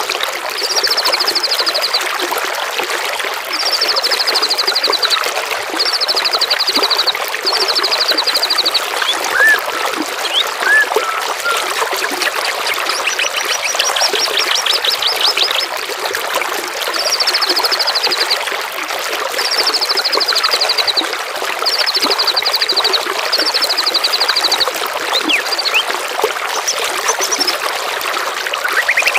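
Steady trickling, flowing water, with a songbird repeating a short, fast, high trill about every two seconds and a few short rising chirps in between.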